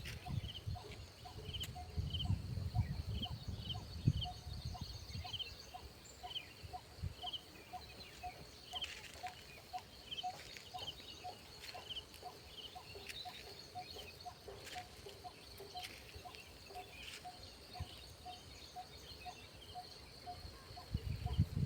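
Outdoor rural ambience of animal calls: a short note repeated evenly about twice a second, scattered higher chirps, and a faint steady high insect hum. A low rumble runs through the first few seconds.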